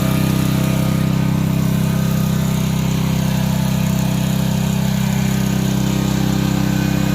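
Portable gasoline generator running steadily, its engine hum even with no change in speed.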